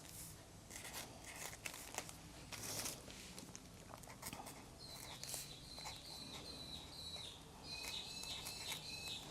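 Pen writing on an art journal page, with faint, soft scratching strokes as the words of a quote are lettered. From about halfway through, faint short high-pitched chirps repeat many times.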